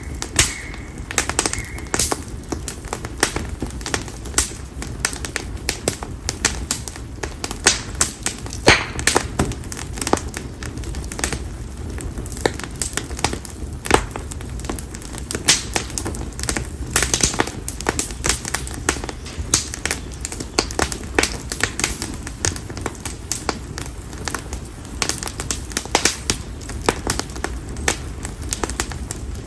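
Bonfire of split konara oak firewood burning, with frequent irregular sharp crackles and pops over a steady low rumble of flames.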